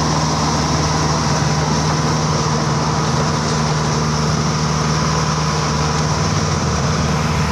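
Toyota Dyna dump truck's diesel engine running steadily at a held, raised speed with an even tone.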